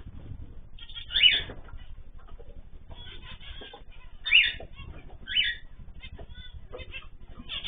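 Ornamental cage birds calling: loud falling calls about a second in, twice more around four and five seconds, and once at the end, with softer chirps between, over a low steady hum.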